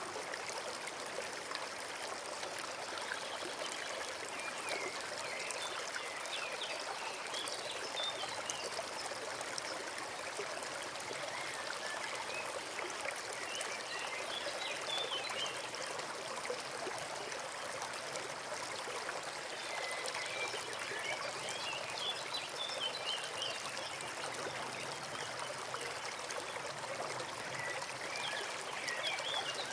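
Small forest stream running steadily, its water trickling and babbling without pause.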